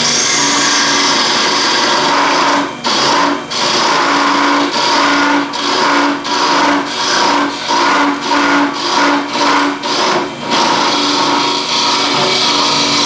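Wood lathe running with a turning tool cutting into the spinning wooden magnet blank, a steady scraping cut over the lathe's hum. Partway through the tool is lifted on and off about a dozen times in quick short cuts, then it cuts steadily again.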